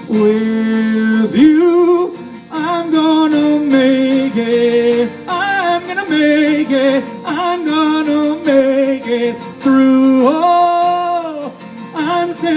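Live worship song: a singer holds long, wavering sung notes over guitar accompaniment.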